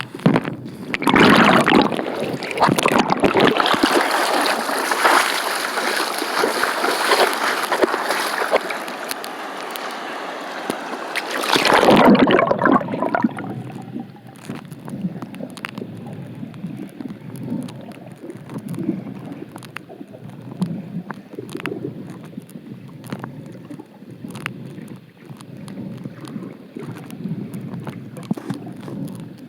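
Stream water rushing and splashing for about ten seconds, then turning muffled and quieter with small clicks and gurgles, as heard with the microphone underwater.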